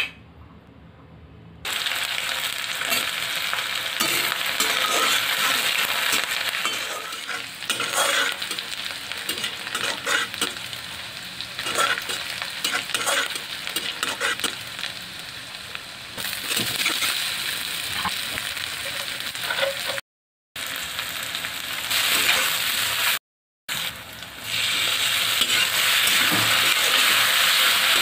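Crushed garlic and green chillies, and later chopped onion and tomato, sizzling in hot oil in a pan while a metal spatula stirs, scraping and clinking against it. The sizzle starts suddenly about two seconds in and drops out briefly twice near the end.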